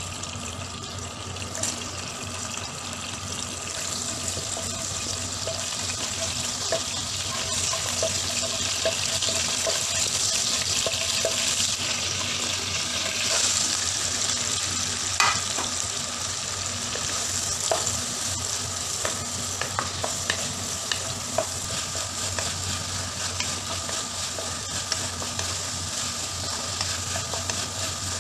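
Diced pumpkin and okra sizzling in hot oil in a nonstick wok, a steady hiss. A wooden spatula scrapes and taps against the pan as the vegetables are stirred, giving many small ticks.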